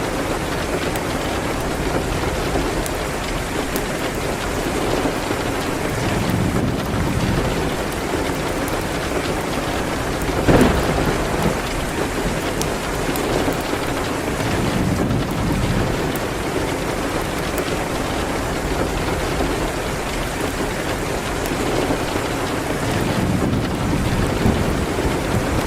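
Steady rain beating on a window, with one sharp crack about ten seconds in.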